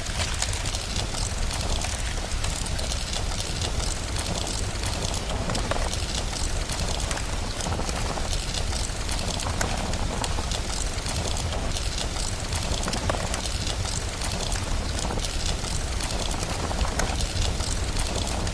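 Steady rain together with a crackling wood fire: a constant hiss dotted with many small pops and crackles over a low rumble.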